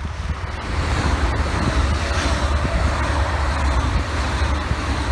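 A train passing on the line: a loud, steady noise with a strong low rumble that swells about a second in and holds.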